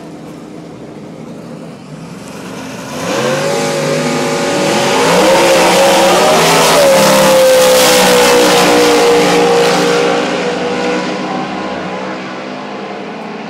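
Two drag-racing cars, a 1968 Camaro and a Ford Thunderbird, launching off the line about three seconds in, their engines revving up in steps through the gears. The sound then holds loud with a slowly falling pitch and fades off as they run down the strip.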